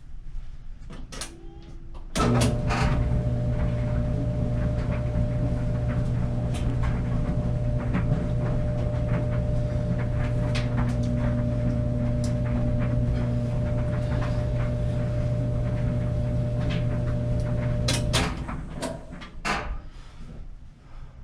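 Clothes dryer switched on: its drum motor and blower start about two seconds in and run steadily with a low hum and scattered light knocks from the drum. It shuts off sharply a few seconds before the end, and a couple of sharp clicks follow.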